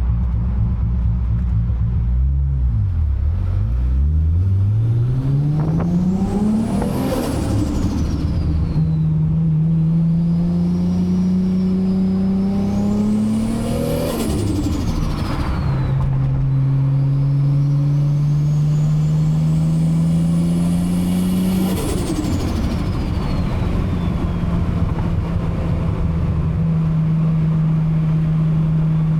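Toyota MK4 Supra's 2JZ-GTE inline-six with a big turbo, accelerating through the gears in three pulls. Each pull has the engine pitch rising with a high turbo whistle climbing alongside, and both drop away at each shift. It settles to a steady cruise for the last several seconds.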